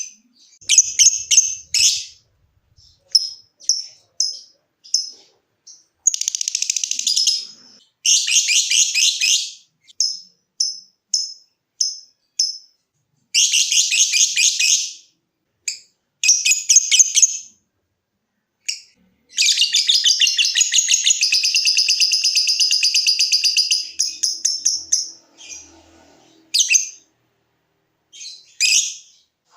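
Lovebird calling: runs of short, sharp, high chirps alternate with bursts of rapid rattling chatter. The longest burst, near the middle, lasts about four seconds. The chatter is the fast 'ngekek' call that lovebird keepers prize.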